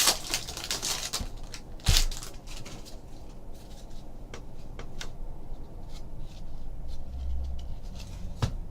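Foil wrapper of a baseball card pack being torn open, with sharp crackles at the start and about two seconds in, then soft clicks and rustles of the cards being handled.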